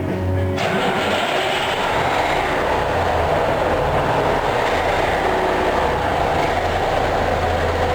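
Heavy diesel truck engine running steadily with a deep hum, starting abruptly about half a second in as background music cuts off.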